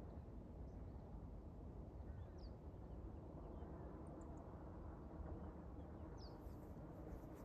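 Faint bird chirps, a few short high calls, over a low steady rumble of outdoor ambience.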